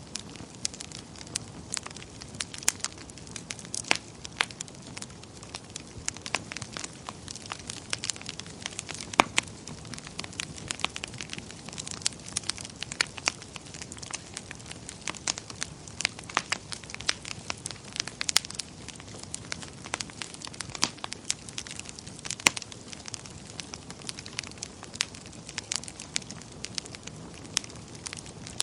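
Wood fire burning in a fireplace, with frequent sharp, irregular crackles and pops over a low steady hiss.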